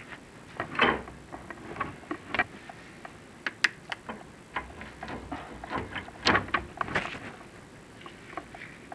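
Chimney inspection camera being worked down a flue, knocking and scraping against the flue liner in irregular sharp clicks and short scrapes.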